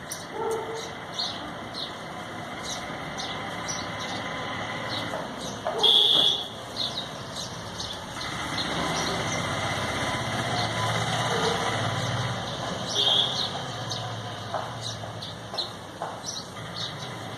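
Small birds chirping repeatedly, with a louder call about six seconds in and again near thirteen seconds. A low vehicle rumble from traffic swells and fades through the middle.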